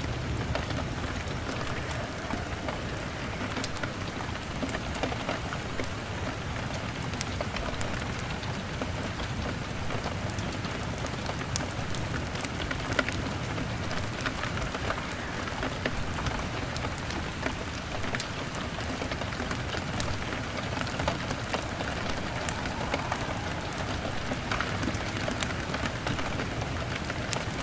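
Rain falling steadily on a window, mixed with a crackling wood fire: an even hiss of rain with scattered sharp little pops throughout.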